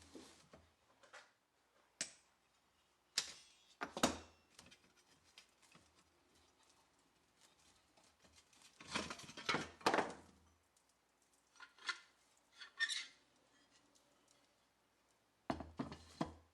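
Workshop handling of tools and parts: a series of short clicks and knocks, a longer scraping, rattling stretch around the middle, and more brief clatters near the end.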